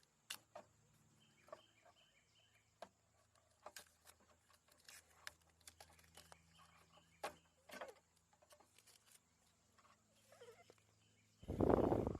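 Faint scattered clicks and taps, with a brief louder rustle near the end.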